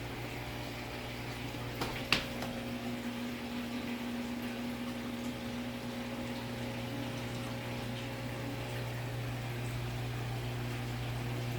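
Saltwater aquarium equipment running: a steady pump hum under a constant wash of moving, bubbling water. Two sharp knocks about two seconds in, the second the louder.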